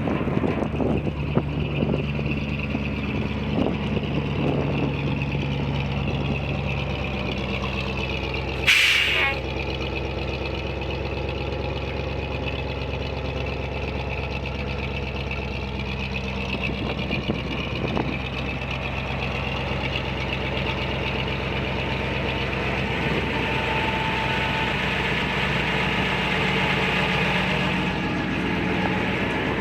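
1974 Ford 900 grain truck's engine idling steadily, with one short, loud hiss of air about nine seconds in.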